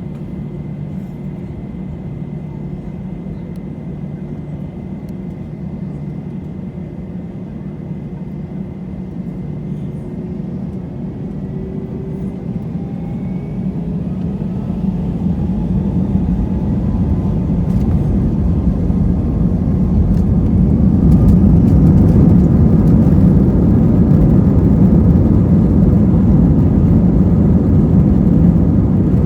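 Airbus A320's IAE V2500 turbofan engines heard from inside the cabin, first running steadily, then spooling up with rising whines about ten seconds in. The sound grows much louder over the next several seconds and holds as a steady loud rush at takeoff thrust.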